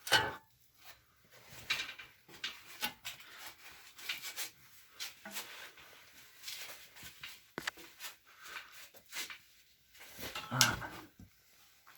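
Irregular clinks, knocks and rubbing of metal tools and parts being handled, with a sharper clank at the start and a louder cluster of knocks near the end.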